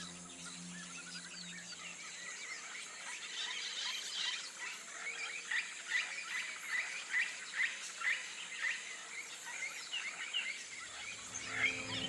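Wild outdoor ambience: many short, repeated chirping animal calls over a steady high insect-like hiss. The calls thicken a few seconds in and thin out again near the end.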